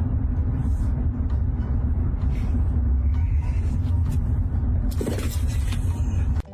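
A steady low rumble with a few faint knocks, stopping abruptly just before the end.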